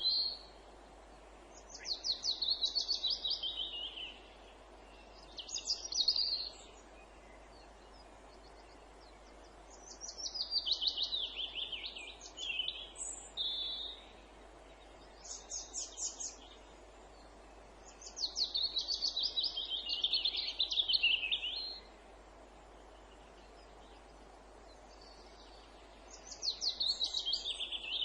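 Songbird singing in separate phrases of one to four seconds with pauses between. Each phrase is a fast run of high notes, several of them falling in pitch toward the end, over a faint steady background hiss.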